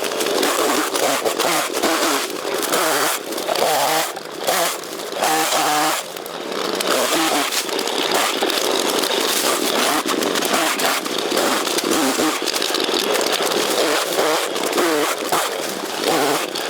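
Chainsaw running and cutting, its engine note wavering up and down as it works, with a few brief drops in revs.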